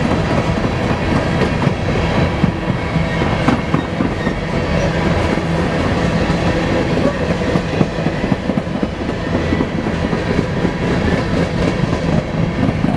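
Cars of a long freight coal train rolling past at speed: a steady rumble of wheels on the rails with rapid clicks.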